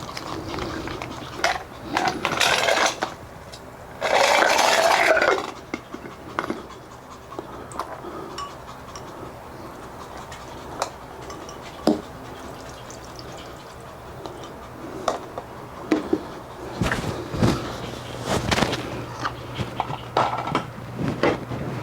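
Bowls and utensils clinking and scraping while cold noodles are put together by hand, with scattered knocks and a louder rushing stretch of about a second around four seconds in.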